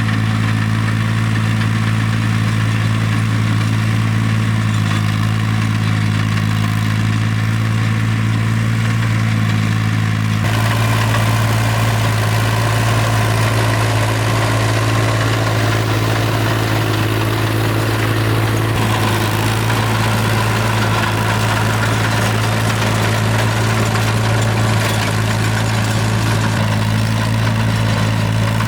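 An engine running steadily at a low, even speed, with a rougher, noisier sound added about ten seconds in.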